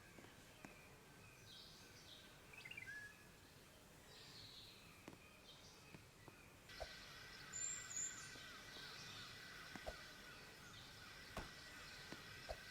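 Near silence: faint outdoor ambience with a few short bird chirps, and from about halfway a faint steady high chirring with a few soft ticks.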